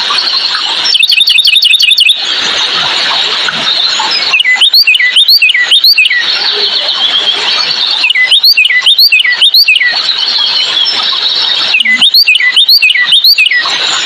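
Bird calls: a fast trill about a second in, then groups of three to five quick, sharp sweeping notes about every four seconds. They sit over a steady high hiss.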